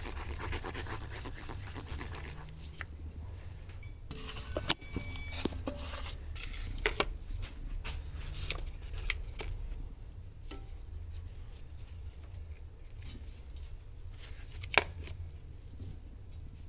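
Small handling and tool noises at a workbench: a rasping scrape, then scattered clicks and taps with one sharp click near the end, over a steady low hum.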